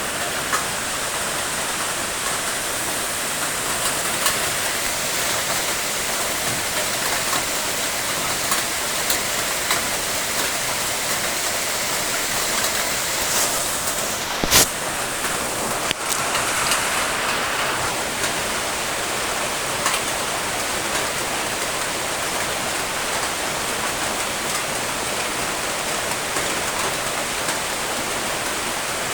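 Steady rain falling, an even hiss with scattered sharper drop taps. About halfway through comes a single louder, sharp tap.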